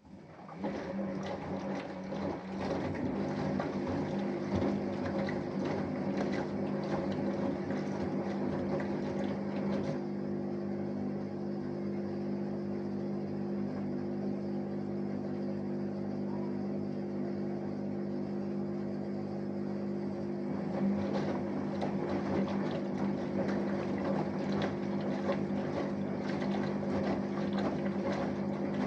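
Samsung Eco Bubble washing machine starting up suddenly from silence and running mid-wash: a steady inverter-motor hum with water noise from the drum.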